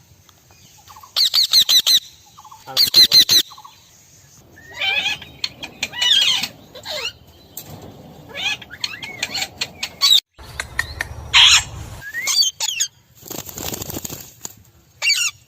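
Parrot calling in repeated bursts of rapid, high screeching chatter, with short pauses between the bursts.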